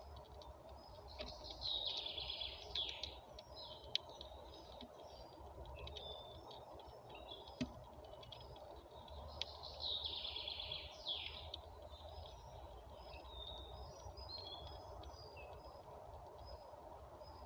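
A songbird sings two phrases about eight seconds apart, each lasting about a second and a half, with scattered short chirps between them, over a steady background hum. A few sharp clicks stand out, the loudest about four seconds in.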